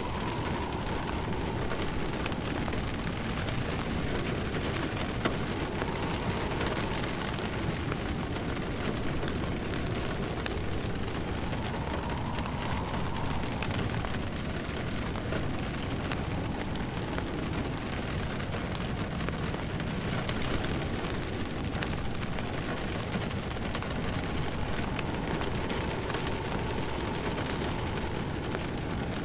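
Steady rain pattering, mixed with a crackling wood fire in a fireplace.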